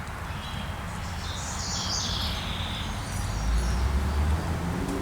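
A bird chirping for a second or so, over a steady low rumble that swells about three and a half seconds in.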